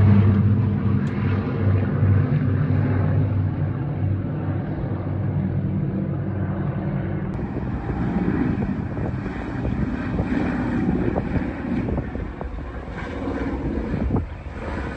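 Boeing B-29 Superfortress's four Wright R-3350 radial piston engines, a low-pitched roar that is loudest at the start and slowly fades as the bomber flies away.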